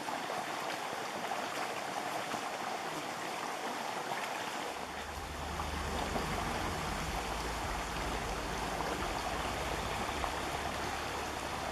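Mountain stream rushing and splashing steadily over rocks. A low rumble joins about five seconds in.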